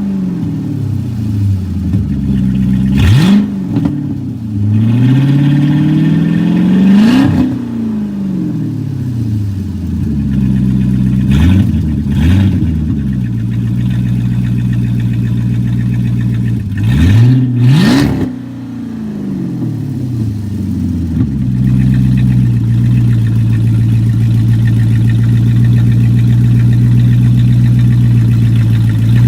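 2006 Dodge Magnum R/T's 5.7 Hemi V8 with the mid muffler and resonator deleted, revved in a series of throttle blips: a quick stab, one longer slower pull, then pairs of quick blips. It then settles back to a steady idle for the last several seconds.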